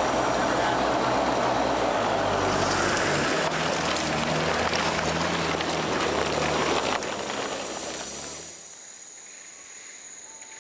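Turbo-diesel Land Rover Discovery engine revving hard under load with a loud rushing noise as the stuck vehicle is pushed to get it moving. The revs climb between two and four seconds in. About eight seconds in it dies away to a quiet background of insects.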